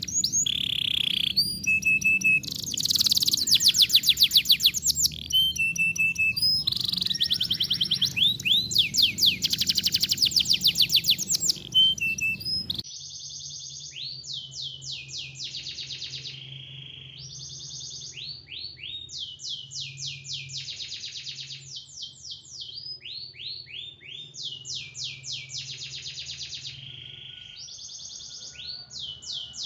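Recorded songbird song played as a tutor recording (masteran) for teaching caged songbirds. It comes in fast high trills of rapidly repeated slurred notes, with a few short steady whistles between the phrases. About thirteen seconds in, the recording cuts abruptly to another, quieter song stretch with less background hum.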